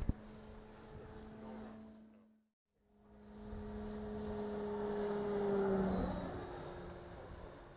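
Electric motor and propeller of a Spacewalker 2 RC model airplane humming in flight. The hum fades out about two seconds in, then after a brief gap swells on a pass, loudest a little before six seconds, its pitch dropping slightly as the plane goes by.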